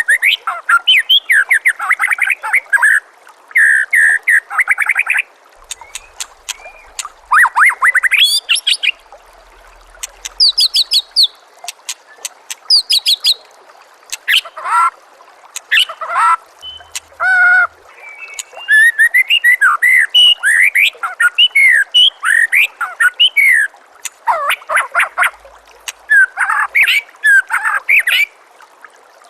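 White-rumped shama singing a long, varied song: loud whistled phrases and very fast high trills in bursts of a second or two, separated by short pauses. A steady trickle of water runs faintly underneath.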